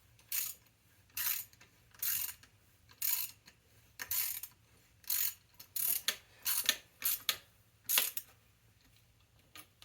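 Small hand socket ratchet wrench being worked back and forth to tighten a bolt, the pawl clicking on each return stroke: about ten strokes, roughly one a second, stopping about eight seconds in.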